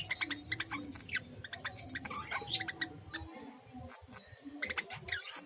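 Lovebirds making quick squeaky chirps among many short, fast clicks while the male feeds the female beak to beak.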